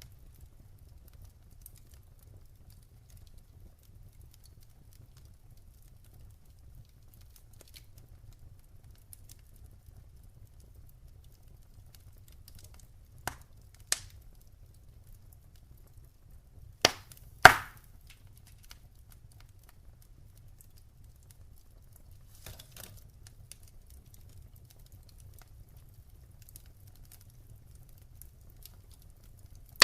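Wood fire crackling: sparse faint crackles over a low steady rumble, with a few sharp pops about halfway through, the loudest a close pair a little past the middle.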